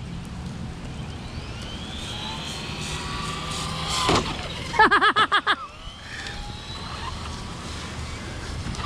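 Electric RC cars' motors whining, the pitch gliding up and down as they speed up and slow down. There is a sharp knock about four seconds in, then a brief burst of a person's voice.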